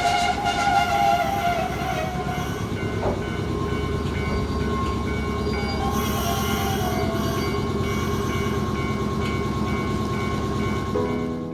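Nankai Kada Line electric train running on the rails: a steady rumble with high squealing tones over it, a wavering one in the first couple of seconds, then a steadier whine. It fades out at the very end as piano music comes in.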